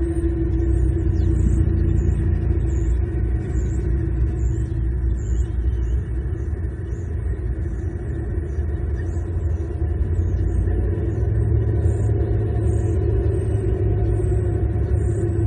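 Steady low rumble of distant road traffic, with faint high chirps repeating a little over once a second.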